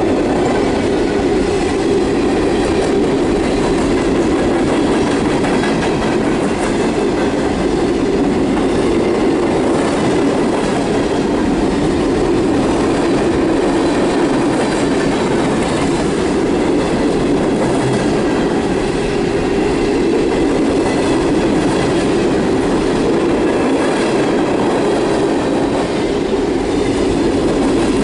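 Empty coal hopper cars of a CSX freight train rolling steadily past on the track, a continuous rumble of wheels on rail.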